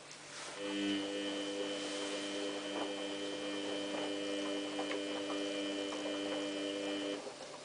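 Samsung WF8804RPA washing machine in service mode giving a steady electrical hum, starting just after the beginning and cutting off abruptly near the end.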